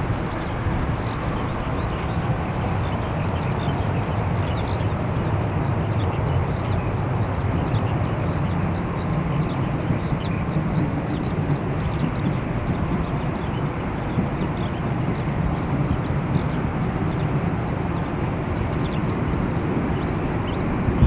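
Boeing 787-8's Rolls-Royce Trent 1000 jet engines running steadily at low power during push-back, a constant low hum and rush of engine noise heard across the apron.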